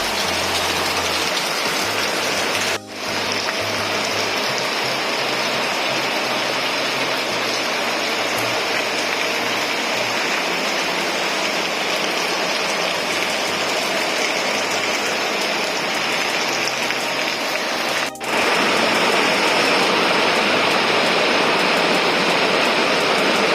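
Steady rain falling and pattering on surfaces, an even hiss that drops out for a split second twice, about three seconds in and near eighteen seconds.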